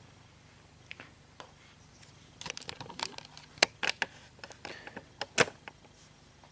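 Hands handling the plastic parts of a laptop's screen assembly while tucking the display cable into its grooves: a few small clicks, then a busy run of sharp clicks and light scraping for about three seconds.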